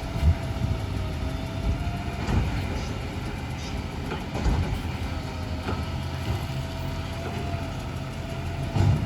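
Garbage truck engine running steadily, with a thin steady whine above it and scattered clunks and knocks.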